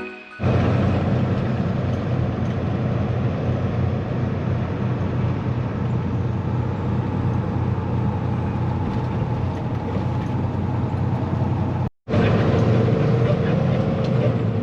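Steady engine and road noise of a semi truck driving at speed, heard from inside the cab, with a brief break about twelve seconds in.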